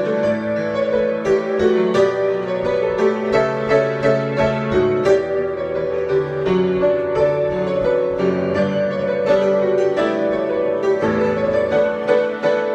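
Solo piano improvisation: a continuous flow of struck notes over sustained chords in the middle range.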